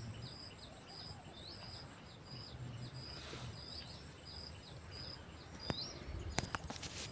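A bird calling over and over, short high chirps about two a second, over faint outdoor background noise. Near the end come a few sharp clicks and knocks.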